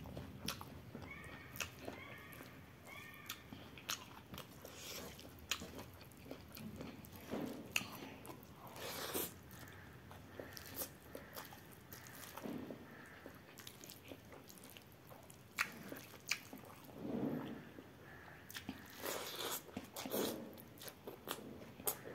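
Close-up eating sounds: chewing and crunching of food with irregular wet clicks and smacks of the mouth, as a rice meal is eaten by hand.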